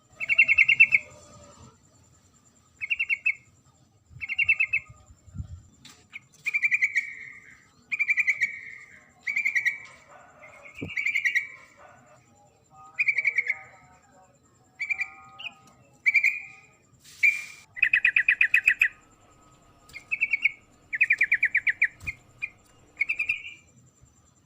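Female yellow-vented bulbul (trucuk) giving repeated chattering calls, each a quick rattle of notes, about one every second or so: the female's call that draws males in.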